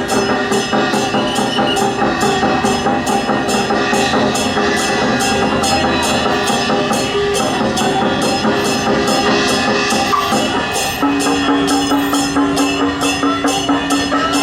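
Temple procession music: percussion struck in a steady beat, about three strikes a second, under sustained melodic tones. A new held note comes in about eleven seconds in.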